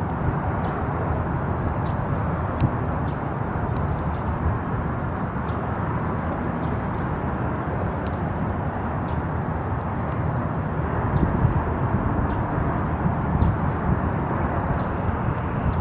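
Jet engines of a departing Frontier Airbus A320, a steady rumble that grows a little louder about two thirds of the way through.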